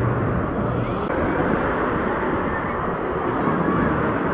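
Steady rush of wave pool water and splashing, with faint distant voices and shouts of a crowd.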